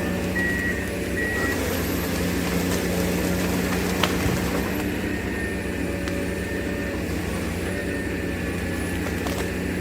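A forestry harvester's diesel engine running steadily. Its reversing alarm beeps for about the first second and a half, then stops.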